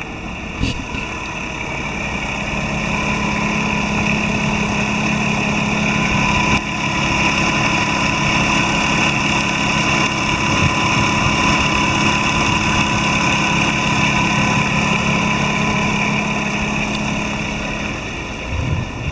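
Volkswagen Touareg's BMV V6 engine idling steadily. Its level builds over the first few seconds, holds even, then falls off near the end.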